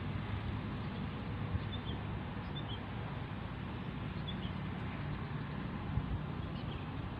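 A few faint, short high chirps of small birds, scattered through, over a steady outdoor hiss with a low rumble underneath.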